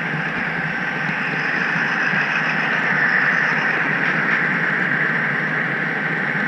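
HO-scale model train rolling along the track, heard from a camera riding in the caboose: an even rushing running noise that swells a little midway.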